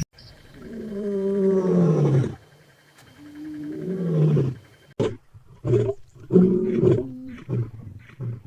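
A large animal roaring: two long calls that fall in pitch, then a run of short grunts.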